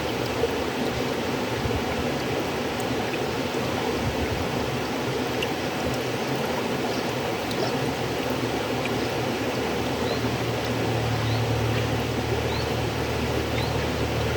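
River water flowing steadily, a continuous rushing noise. A low rumble swells about two-thirds of the way through.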